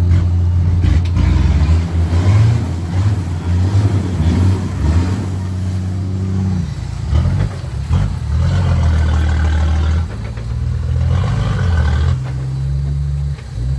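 Off-road 4x4 engine revving up and down repeatedly under load, its pitch rising and falling several times, with some rougher, noisier stretches in between.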